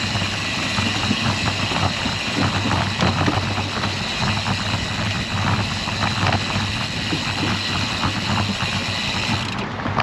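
Steady wind rush and road rumble from riding a road bicycle into a headwind, with motor traffic running alongside.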